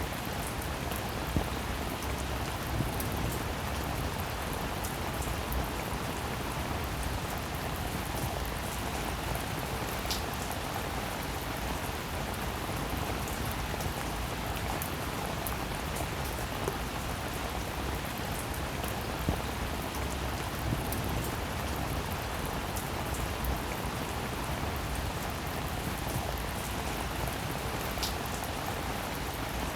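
Steady rain falling, with scattered sharper drops ticking now and then.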